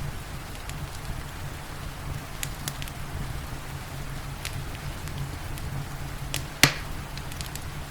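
Wood fire crackling, with scattered sharp pops and one loud pop about two-thirds of the way through, over steady rain and a low, steady rumble.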